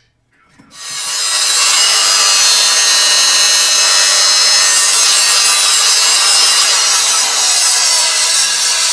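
Metal lathe cutting: the tool scrapes against the spinning workpiece with a loud, steady grinding noise and thin ringing high tones. It starts about a second in.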